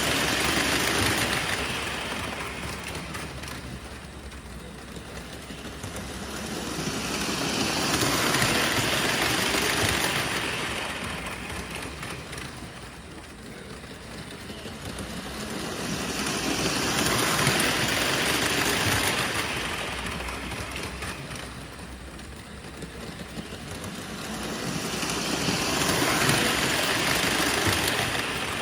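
Model train running laps of a small track loop, rumbling loudly as it passes close about every nine seconds and fading as it goes round the far side.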